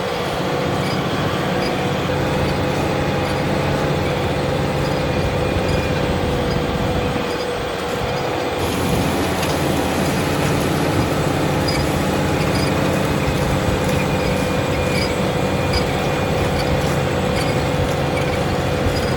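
Fendt tractor running steadily under load while ploughing, with a constant whine held over the engine. The sound dips briefly about halfway through.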